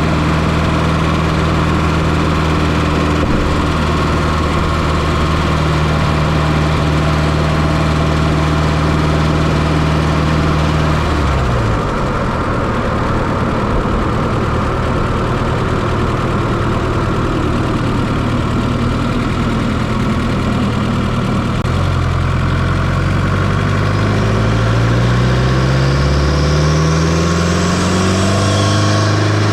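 Fiat Coupe 2.0 16V turbo four-cylinder engine running, heard from inside the engine bay. Its steady note drops about eleven seconds in, then climbs steadily from about 22 seconds as the revs rise, with a faint high whistle rising alongside near the end.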